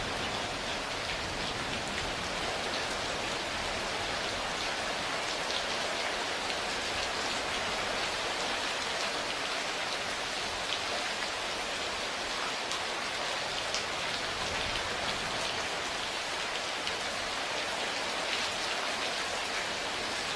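Steady, even rain, with individual drops ticking now and then on top of the continuous hiss.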